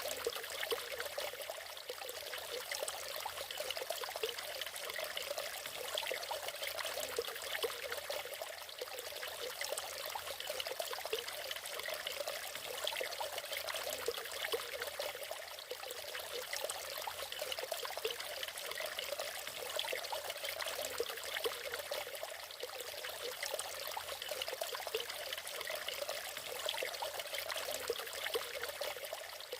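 Natural waterfall: water falling and splashing steadily, a light, even trickling wash without a deep rumble.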